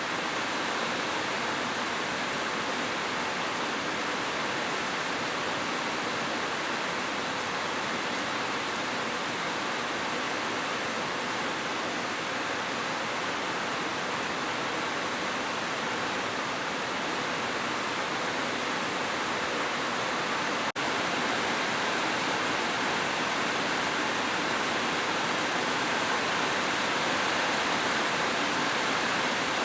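Heavy rain falling in a steady, unbroken hiss, with one momentary dropout about two-thirds of the way through.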